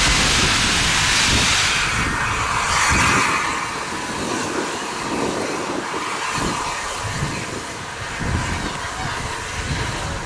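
Steam locomotive with a loud steam hiss that dies away about two seconds in, leaving a quieter rumble with uneven low thumps.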